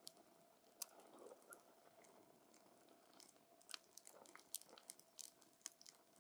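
Wood campfire crackling: irregular sharp pops and snaps from the burning wood over a faint steady hiss of the flames.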